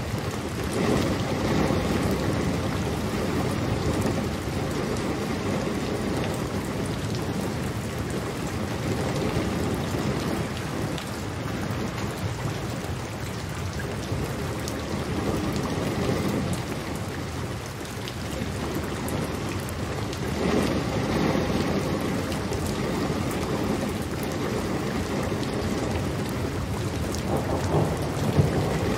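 Steady rain with low rumbles of thunder that swell several times, building again near the end.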